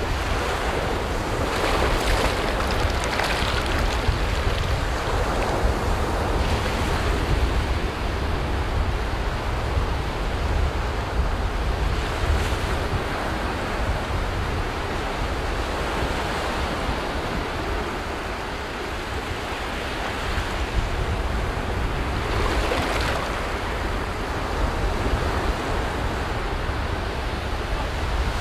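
Ocean waves breaking on a beach, a continuous surf wash with a deep rumble and several louder swells of breaking water, with some wind on the microphone.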